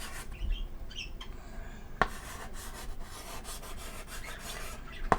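Chalk scraping and rasping across a chalkboard as a name is written, with two sharp taps of the chalk on the board, about two seconds in and near the end. Pet birds chirp faintly near the start.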